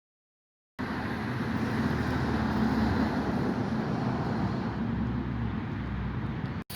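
Steady vehicle engine and road noise with a low hum. It starts abruptly about a second in and cuts off just before the end.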